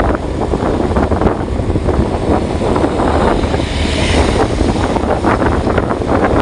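Loud wind noise on the microphone: a steady rushing rumble with constant crackle.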